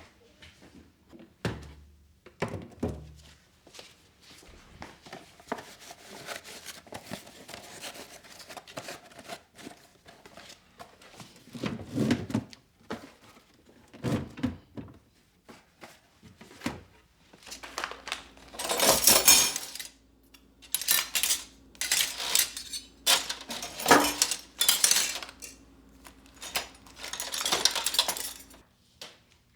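Kitchenware being handled and set down: clinks and knocks of dishes, jars and utensils, with several longer rustling, hissing stretches in the second half.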